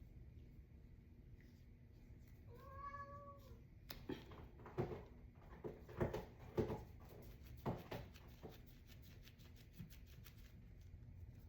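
A cat gives one short meow, rising then falling in pitch, followed by a run of irregular knocks and light clicks.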